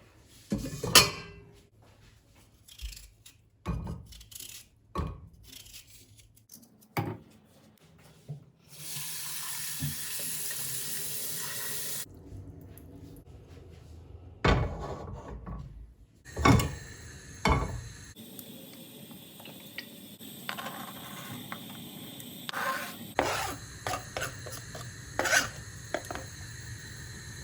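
Kitchen work sounds: dishes and utensils knocking and clinking in scattered strikes, with a steady hiss lasting about three seconds near the middle.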